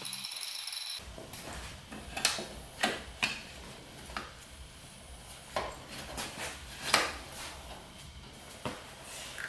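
Light metallic clanks, clinks and knocks, about a dozen at irregular intervals, as the trimmed steel rear fender of a motorcycle is handled and test-fitted.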